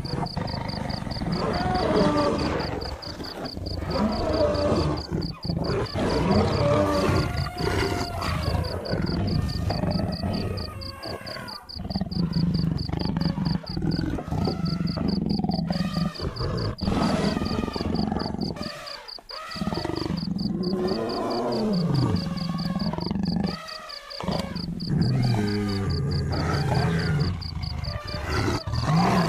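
Lions growling and roaring, with other animal calls that rise and fall in pitch, the sound breaking off abruptly several times.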